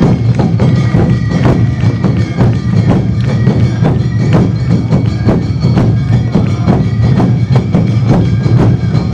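Awa Odori festival music played live: drums and a clanging metal hand gong beating a fast, steady rhythm, with a held high melody line over it.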